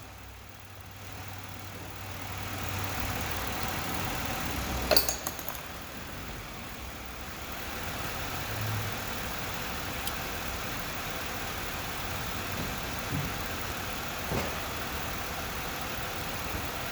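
Car engine idling steadily, with one sharp metallic click about five seconds in.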